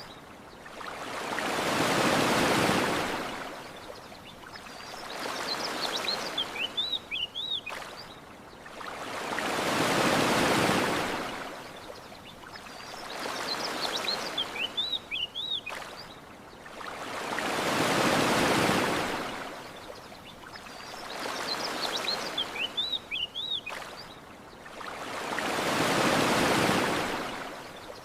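Ocean waves washing onto a shore, each swell rising and falling away about every eight seconds, four times. In the lulls between swells a bird gives a short run of quick chirps, the same pattern repeating like a loop.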